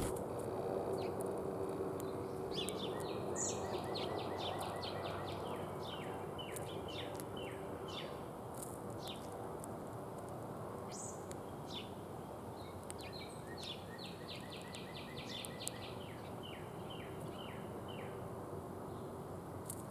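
A songbird sings twice, each phrase a fast run of repeated short notes followed by a few slower notes, with scattered single chirps between, over a steady low background rumble.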